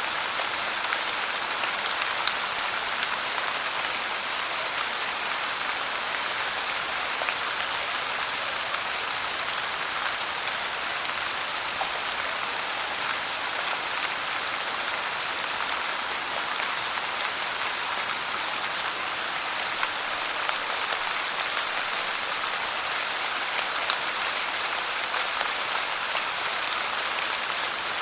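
Steady rain falling and pattering on a surface, an even hiss with scattered small drop ticks.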